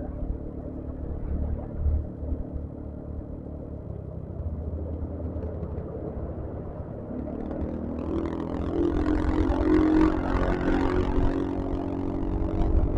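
Yamaha XMAX scooter's engine running under way, with road and wind noise. About eight seconds in the engine note rises a little and the noise grows louder.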